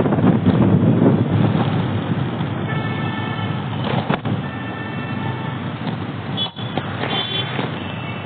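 Road traffic noise, loudest at the start, with vehicle horns sounding several times: about three seconds in, again around five seconds, and a short high horn near the end.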